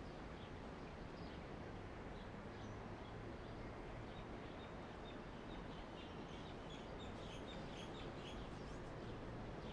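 Steady outdoor city background hum with small birds chirping now and then, the chirps coming more often in the second half.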